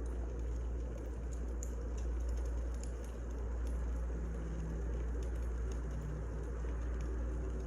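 Wood fire crackling: scattered sharp pops about once a second over a steady low rumble and hiss.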